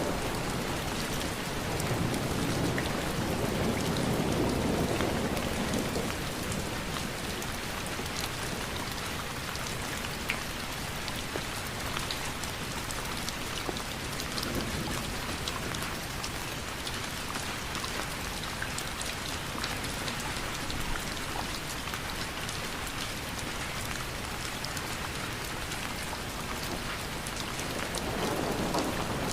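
Steady rain falling, with many small drop ticks. A low rumble swells during the first few seconds and again near the end.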